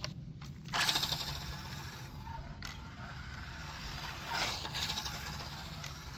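Maverick Microbe 1/24-scale brushed 2WD RC short course truck being driven, its motor, gears and tyres making a mechanical whirring. The sound swells twice, about a second in and again past the middle.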